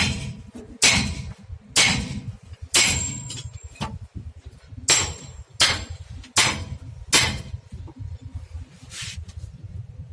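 Hammer blows on the steel leaf spring of a Tata truck during a repair: about nine heavy strikes roughly a second apart, with a pause midway. A couple of them leave a short metallic ring, over a steady low rumble.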